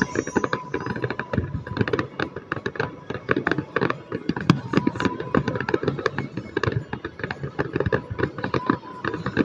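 Fireworks crackling: a dense, rapid run of sharp pops and crackles, many each second.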